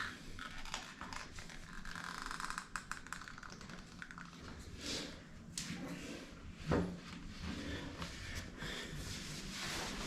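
Faint handling noises from wooden trim being held in place against a wall: scattered light taps and scrapes, with one louder knock about seven seconds in.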